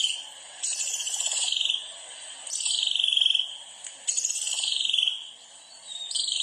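A high, buzzy animal call, repeated about four times, each one a rapidly pulsed sweep about a second long that falls in pitch.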